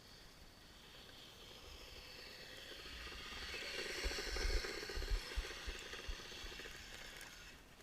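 Kyosho Blizzard RC snowcat's electric motor and tracks running over snow, a hissing whine that grows louder toward the middle and fades away again, with a few low thumps at its loudest.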